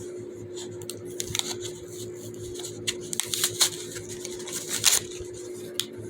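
Irregular clicks and taps of small plastic fidget toys being handled, a few sharper knocks in the middle, over a steady faint hum.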